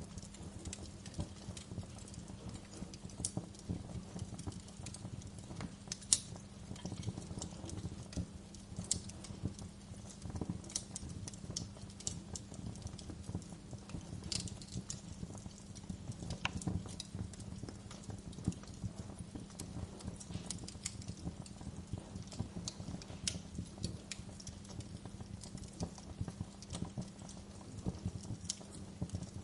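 Wood fire crackling: irregular sharp pops and snaps over a steady low rumble of burning, with one louder crack about six seconds in.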